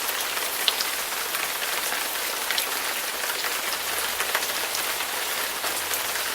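Heavy rain ahead of a typhoon, falling steadily, with many sharp drop ticks through the hiss.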